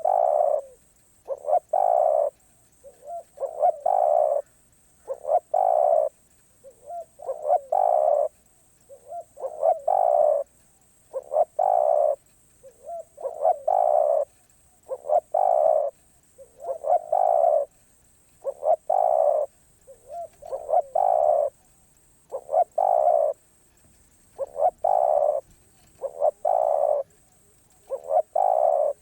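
Spotted dove cooing over and over: each phrase is a short note or two and then a longer coo, about one phrase every two seconds.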